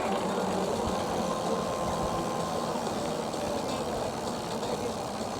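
Steady road noise from a ridden e-bike: tyres and wind, with a faint steady high tone for a couple of seconds.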